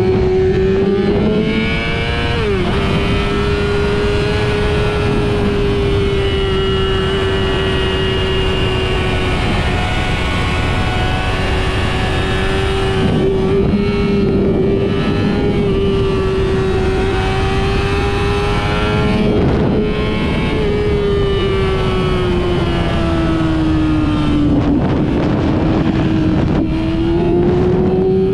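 Car engine running at high revs on a race track, a strong steady note with road and wind noise underneath. The pitch drops sharply once about two and a half seconds in, then holds, eases down a little past twenty seconds and climbs again near the end.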